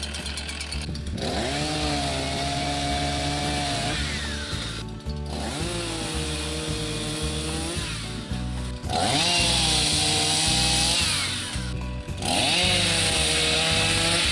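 Chainsaw revved up four times, each run rising in pitch and then held steady for a few seconds with short breaks in between, over background music.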